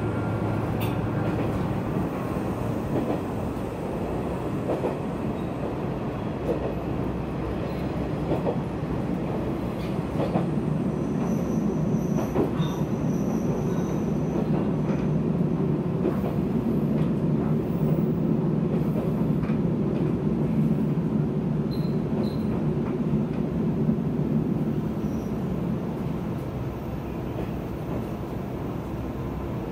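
Diesel railcar running along the line, heard from inside the car: a steady rumble of engine and wheels on rail with scattered clicks, growing louder about ten seconds in and easing near the end. A faint high wheel squeal comes in for a few seconds about eleven seconds in.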